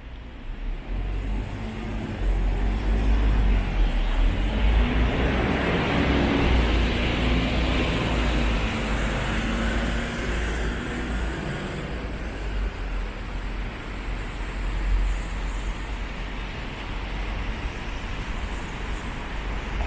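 Road traffic passing close by on a wet road: steady tyre hiss with engine rumble. A heavier vehicle's engine hum stands out in the middle.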